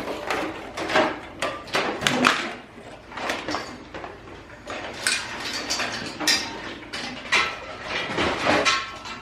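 Metal tools and parts clanking and knocking irregularly, with sharp strikes coming several to a second at times.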